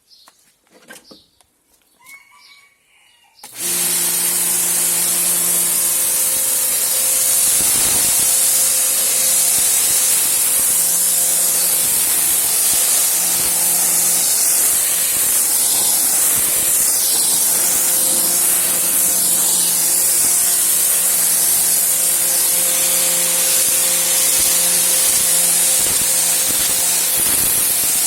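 Stihl RE 98 electric pressure washer switching on about three and a half seconds in and running steadily: the hiss of the high-pressure water jet over the hum of its induction motor.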